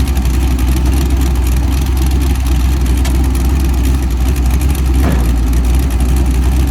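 Turbocharged LS V8 engine of a Triumph Spitfire drag car running at a steady idle, a constant low rumble with no revving.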